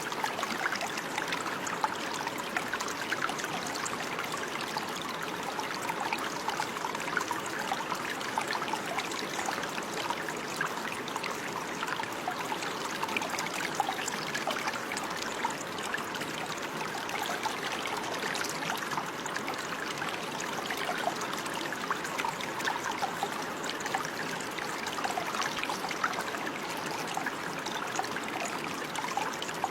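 Running water flowing and trickling steadily, with many small splashes and gurgles.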